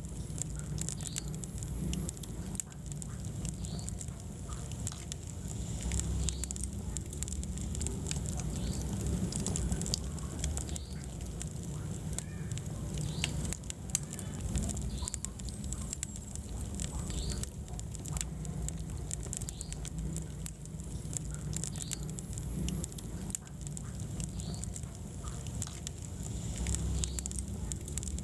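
Wood fire crackling in a fireplace, with frequent sharp pops and snaps over a low, steady rumble of flames.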